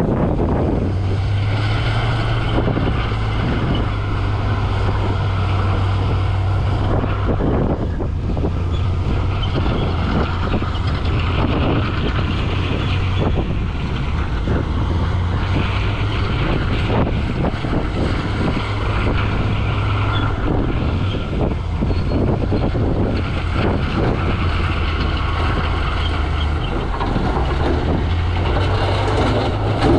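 Heavy diesel engine of earthmoving machinery running steadily under load, with scattered knocks and clanks.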